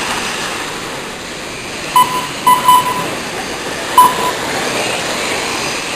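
Short, sharp electronic beeps, four in all: one about two seconds in, a quick pair just after it and one about four seconds in. They sound over a steady rushing noise from the race.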